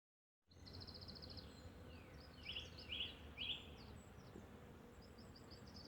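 Songbirds calling over faint woodland background hiss, starting after half a second of dead silence: a short rapid trill, then three loud chirping phrases in the middle, and more chirps near the end.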